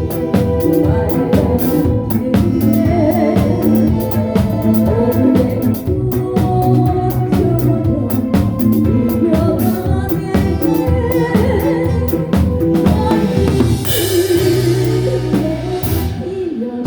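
Live band playing a song, with a drum kit keeping a steady beat on snare and kick under bass, keyboards and guitar. A cymbal crash rings out with a held bass note about three quarters of the way through.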